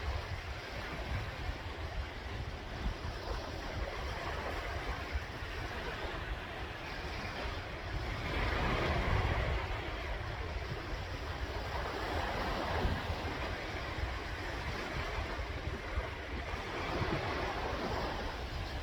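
Sea waves washing onto the shore, with a swell of surf every few seconds over a steady wash, and wind buffeting the microphone in a low rumble.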